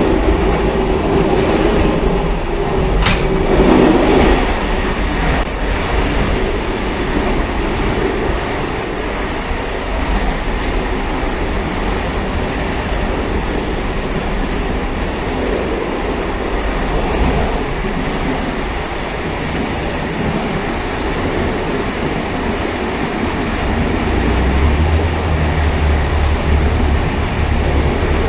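Railcar running on the rails: a steady rumble and rail noise, with one sharp click about three seconds in and a deeper low hum coming in near the end.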